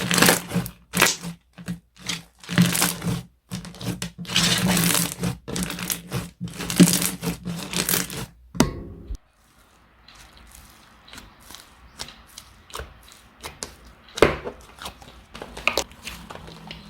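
Handmade slime being squeezed, pressed and stretched by hand, giving dense, loud crackling and crunching for about eight seconds. It breaks off suddenly, and quieter scattered clicks and small pops from the slime follow, with a few louder pops near the end.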